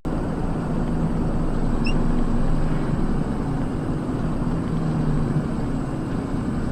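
Car engine and road noise while driving: a steady hum with a low engine drone that swells briefly about five seconds in.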